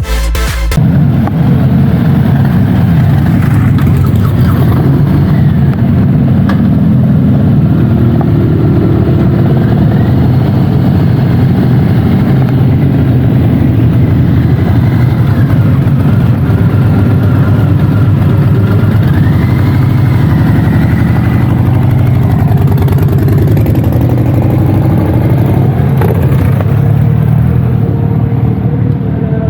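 A loud car engine running steadily, its low, rapid exhaust pulsing heavy; it cuts in about a second in.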